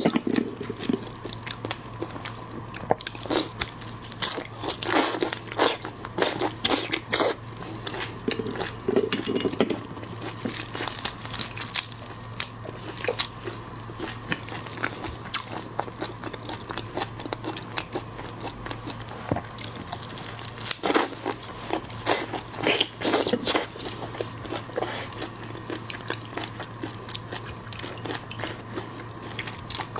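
Close-miked mukbang eating of seafood: repeated bites, crunches and wet chewing, with clusters of louder crunches twice. A steady low hum sits underneath.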